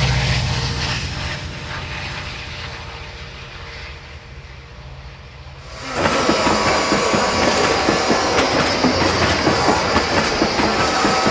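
Model trains running on the layout's track. A low rumble fades over the first five seconds; about six seconds in, a louder, busier train sound starts, with rapid clicking of wheels over the rails and a few steady whining tones.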